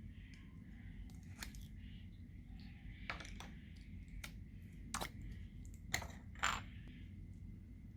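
Irregular sharp clicks and taps from small hard objects and containers handled while mixing things into slime, about seven in all, the loudest two close together a little past the middle.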